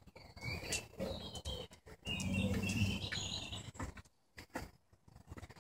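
Birds chirping, with a few short knocks and scuffing noises near them.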